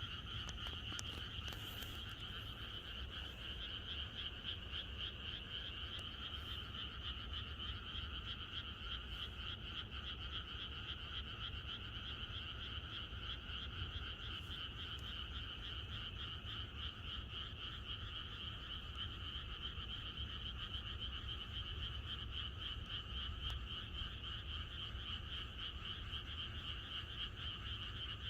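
A dense, continuous chorus of many frogs calling together, a high rapid trilling band with a lower band of calls beneath it, over a faint low rumble.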